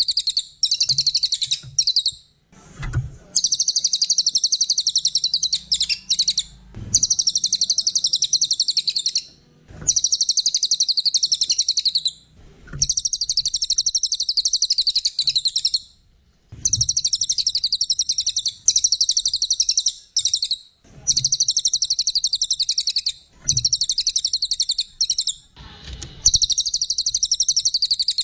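A small songbird singing a rapid, high-pitched chattering trill in bouts of two to three seconds with short pauses between them, about nine bouts in all. Faint low knocks come now and then.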